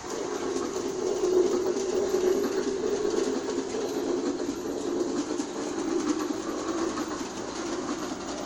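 New Bright Railking G scale toy train running round its track, a steady rumble of motor and wheels with faint clicking.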